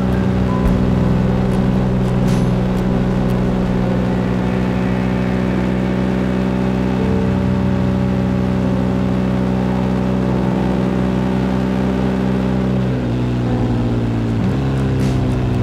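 Motorcycle engine running at steady revs while cruising. About 13 seconds in the engine note drops, then steps again near the end, as when the rider eases off and changes gear.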